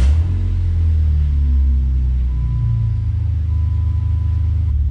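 Jeep Wrangler engine idling just after being started, a loud steady low rumble that settles into an even idle over the first couple of seconds.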